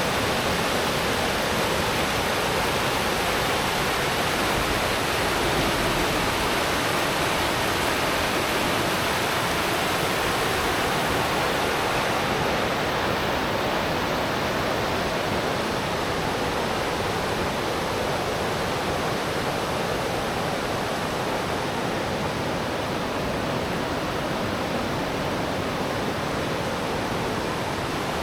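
Steady rush of flowing river water, turning a little duller from about halfway through.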